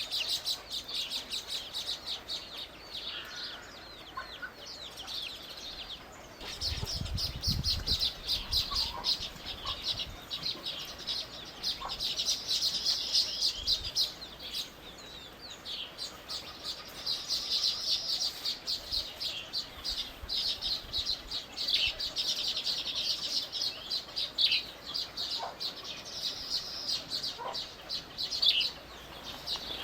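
Small birds chirping, a dense stream of rapid, high-pitched chirps that swells and eases throughout, with a brief low rumble about seven seconds in.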